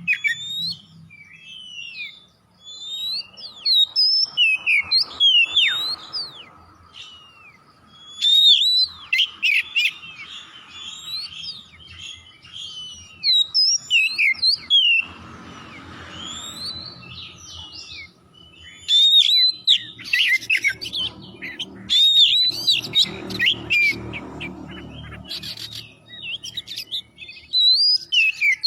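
Oriental magpie-robin (kacer) singing a loud, varied song of quick whistled notes and slurred up-and-down glides, in phrases with short pauses between them. A faint low rumble sits underneath for several seconds midway.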